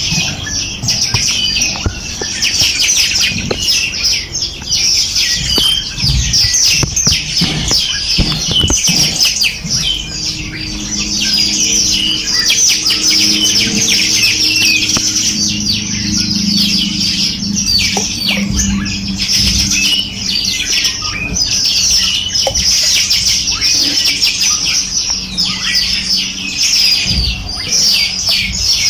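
A dense chorus of many small birds chirping and calling over one another without a break, with a faint low steady hum underneath.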